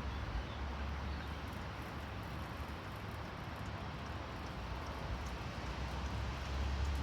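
Small Heinrich hot-air stationary engine running: a steady rushing noise over a low hum, which swells near the end.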